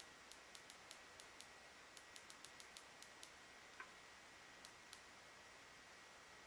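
Near silence: faint room tone with a steady faint high whine and scattered faint, irregular small clicks, one a little stronger about four seconds in.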